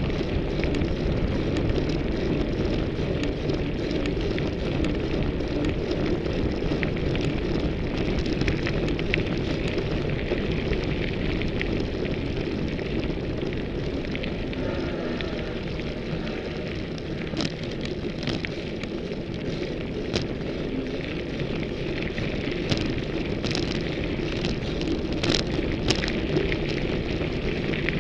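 Ibis Mojo HD 140 full-suspension mountain bike being ridden, heard through a camera mounted on its frame: a steady low rumble of wind and tyres rolling over the trail, with a continuous gritty crackle. Sharp clicks and rattles come now and then, more often in the second half.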